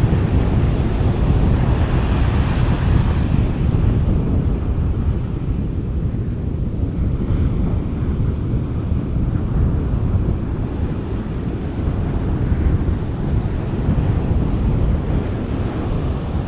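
Gentle sea waves washing onto a beach, a surge of hiss swelling in the first few seconds, over a steady low rumble of wind buffeting the microphone.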